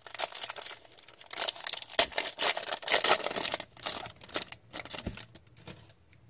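Hockey trading cards being handled and flipped through, with crinkling of their packaging: a busy run of rustling and small clicks that is loudest in the middle and thins out near the end.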